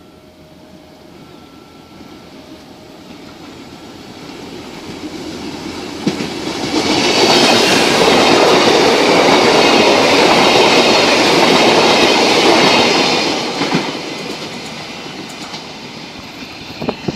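Passenger train approaching and passing: the rumble of wheels on rail builds over several seconds, stays loud for about six seconds with clickety-clack and a faint metallic squeal, then fades. A short sharp clatter comes near the end.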